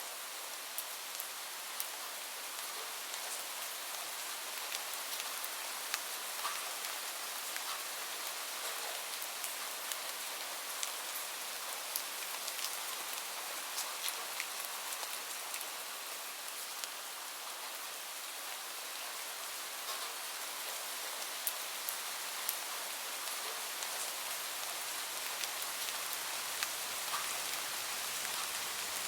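Steady rain falling on a surface: an even hiss with many separate drop taps scattered through it.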